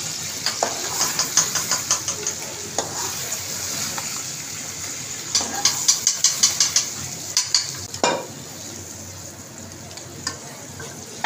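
Chicken and freshly added tomato purée sizzling in oil in a karahi, with a metal slotted spatula stirring and scraping against the pan in two runs of quick strokes. A sharp knock of the spatula comes about eight seconds in, and the sizzle is quieter after it.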